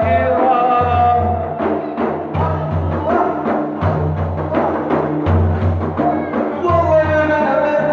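Drum beats in a madih praise chant: a steady run of strikes with deep thumps, several a second, in a break between sung lines, with the chanter's voice at the start and coming back near the end.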